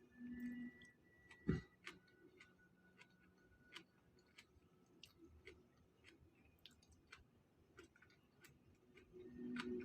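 Faint eating sounds: scattered small clicks and taps of mouth and utensils, with one louder knock about a second and a half in.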